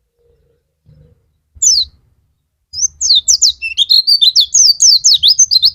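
White-eye (pleci) singing: a single high falling note, then from about halfway a fast, unbroken warbling run of high chirps.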